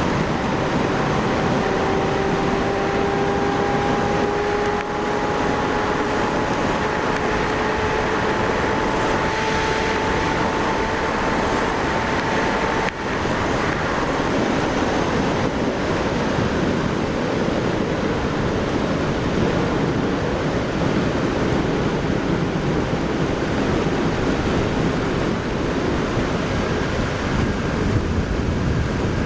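Rider's 2006 Kawasaki Ninja ZX-6R (636) inline-four engine under steady throttle at road speed, its note rising slowly, under heavy wind rush on the microphone. About halfway through there is a brief dip, after which the engine note is lost under the wind.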